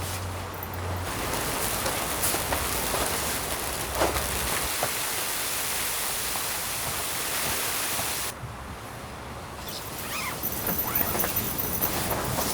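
Strong wind blowing in a steady rush, with a low hum that cuts off about a second in and a few light knocks.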